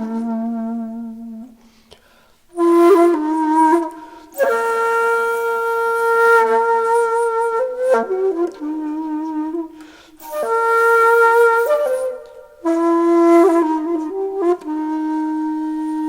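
Background music: a solo flute-like wind instrument playing slow phrases of long held notes, with short breaks about two seconds in and again around ten and twelve seconds in.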